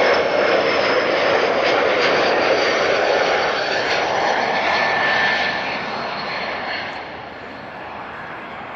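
Jet airliner's engines passing close by on landing: a loud roar with a steady high whine, which fades as the plane moves away over the last few seconds.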